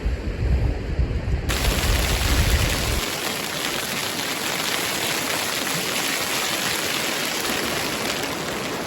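Low wind rumble on the microphone, then about a second and a half in a steady, even hiss starts abruptly and holds while the rumble dies away.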